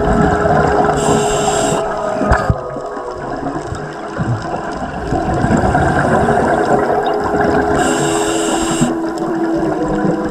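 A diver's scuba regulator underwater: two short hissing inhalations, about a second in and again near eight seconds, with exhaled bubbles rumbling and gurgling between them.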